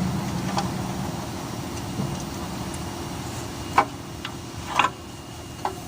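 A handful of sharp metallic clinks from hand tools on engine parts, scattered irregularly, the loudest about four and five seconds in, over a steady low hum.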